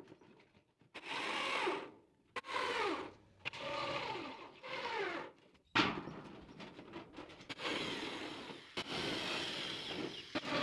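Power drill driving screws through a roofing sheet, in a series of short runs, the motor's pitch dropping in each run as it loads up.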